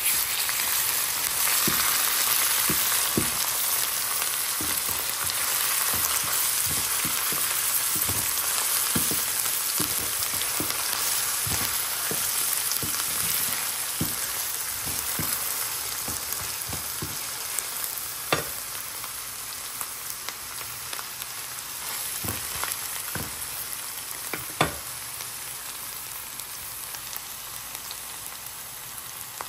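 Sliced onions and minced garlic sizzling in oil in a stainless steel frying pan, stirred with a wooden spatula that knocks softly against the pan again and again. The sizzle slowly quietens, and there are two sharper taps in the last third.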